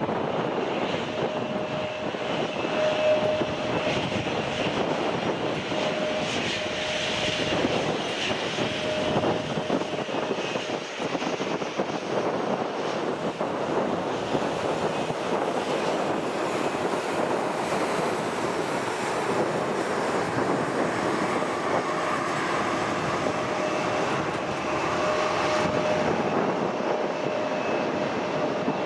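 Airliner engines running at the airport: a steady rushing noise with a faint tone that fades in and out.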